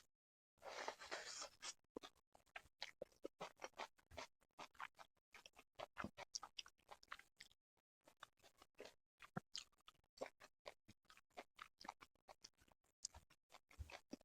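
Close-miked mouth sounds of someone chewing sushi: a quick, irregular run of wet clicks and small crackles. About half a second in there is a denser burst of noise lasting about a second.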